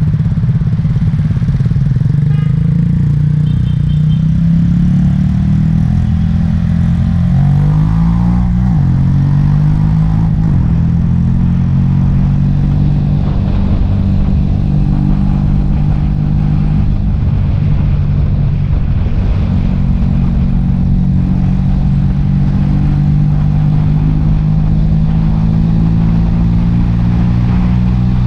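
Small single-cylinder four-stroke engine of a Yamaha Taurus underbone motorbike running steadily under way. Its note shifts about eight seconds in, then holds steady.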